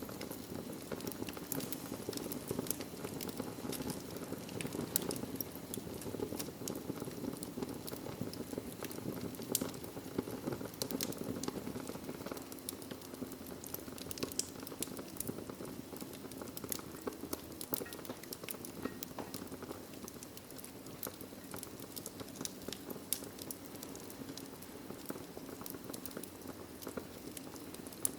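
Wood fire burning in a fireplace: a steady low rush of flame with frequent sharp crackles and pops throughout.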